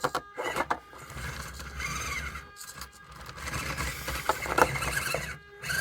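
Element Enduro24 1/24-scale RC crawler working its way over 3D-printed plastic cube obstacles. Its small electric motor whines in uneven spurts while the tyres and chassis scrape and click against the plastic.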